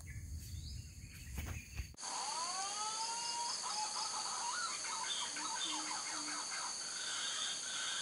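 Handling and wind rumble for about two seconds, then birds calling in the treetop: rising and falling whistles that turn into warbling notes, over a steady high-pitched insect drone.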